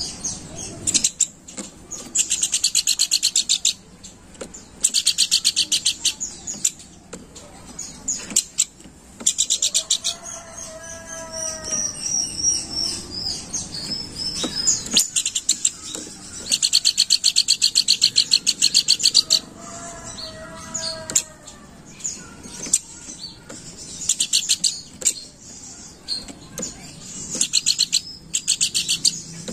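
Pelanduk bukit babbler singing a loud, scolding chatter: fast rattling trills in bursts of one to three seconds, repeated about half a dozen times. Between them come a few clear high whistles and two lower whistled phrases, around ten and twenty seconds in.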